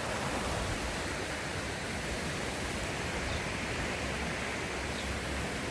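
Snowmelt mountain stream rushing steadily, a constant, even roar of running water.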